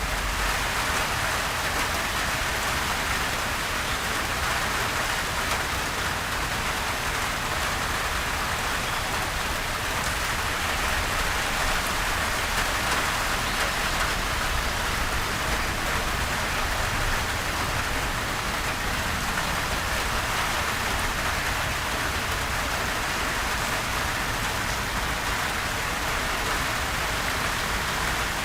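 Steady light rain falling on surfaces, an even patter of raindrops with no thunder.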